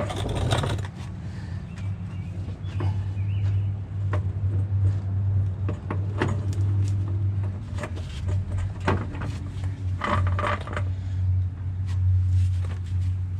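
Scattered metal clinks, knocks and scrapes as a truck drive shaft is handled and worked back into place under the vehicle. A steady low hum runs underneath.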